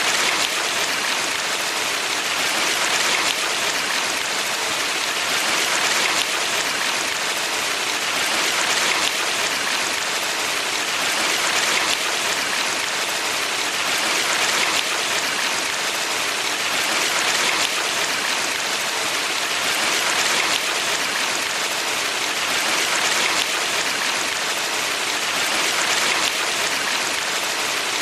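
Steady rushing of a valley stream, an even hiss of water that swells gently about every three seconds.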